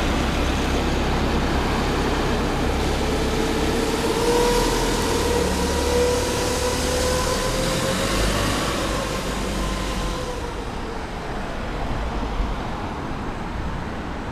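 Enviro 400 BAE hybrid double-decker bus in motion: steady road and drive noise with low rumble, and a whine that rises slowly in pitch as the bus gathers speed, then fades out after about ten seconds.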